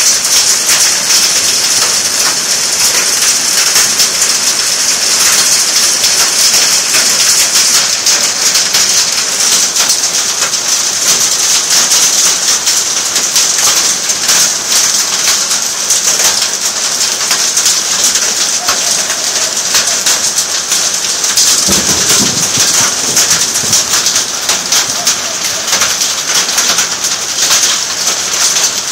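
Heavy rain and hail falling steadily, a dense hiss full of fine ticks from drops striking surfaces. About two-thirds of the way through there is a brief low rumble of thunder.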